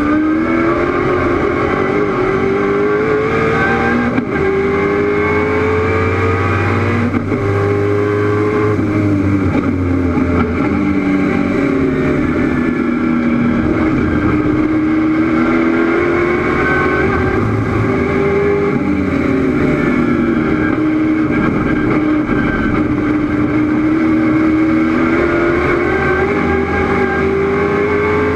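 A 700 hp 1969 Chevrolet Camaro race car's V8 engine under full racing load. Its pitch climbs steadily for several seconds at a time and falls back between climbs, with gear changes and lifts for corners.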